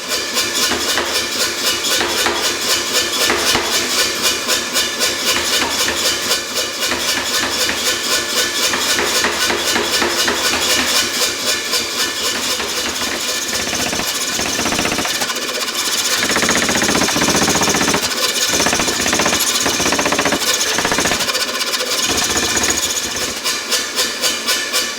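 Steel being forged with a fast, steady run of repeated hammer blows, metal ringing on each strike. The blows grow less distinct for a few seconds past the middle, then pick up again.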